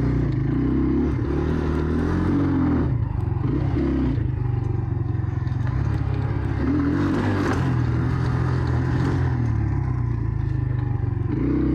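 Two-stroke Jawa enduro motorcycle engine being ridden off-road, its revs rising and falling repeatedly with the throttle.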